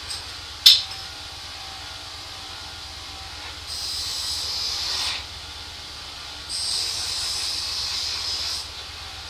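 Two hissing blasts of pressurised spray on a carburetor part being cleaned, the first about a second and a half long and the second about two seconds, after a single sharp click near the start.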